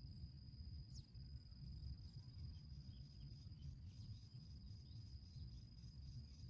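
An insect trills steadily on one high pitch over a low outdoor rumble, with a short falling chirp about a second in and faint quick ticks later on.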